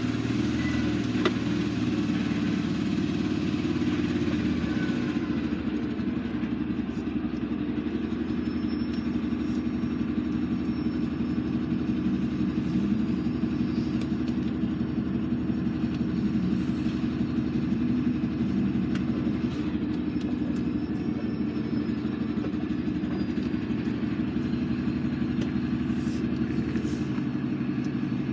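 Lorry's diesel engine running steadily with an even low hum.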